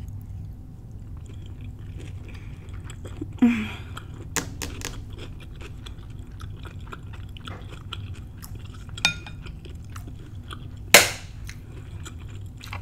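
Close-miked chewing of shrimp and bell pepper stir fry: soft wet mouth clicks and smacks over a steady low hum, with a few louder smacks and one loud sharp sound about eleven seconds in.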